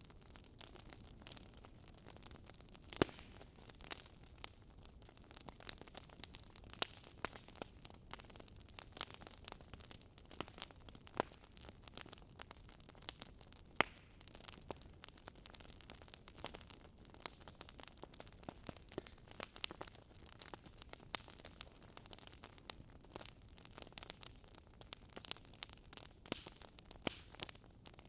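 Wood fire burning in a fireplace, with irregular crackles and pops over a faint hiss; two sharper pops stand out, about three seconds in and near the middle.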